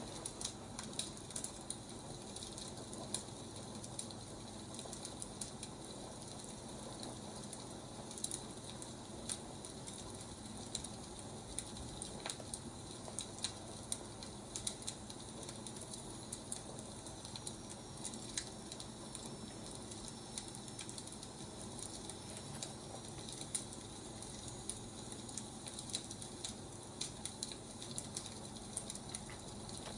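Wood fire crackling: irregular pops and snaps over a steady soft hiss.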